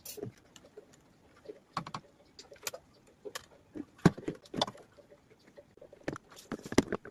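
Irregular clicks, taps and knocks of parts and tools being handled, spaced unevenly with a few louder knocks.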